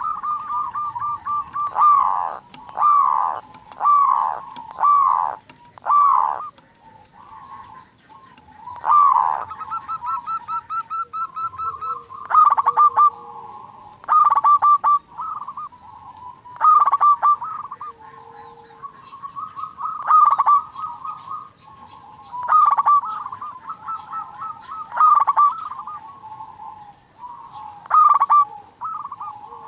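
Zebra doves (perkutut) calling: repeated bursts of quick, rolling coos at a steady pitch, recurring every second or two.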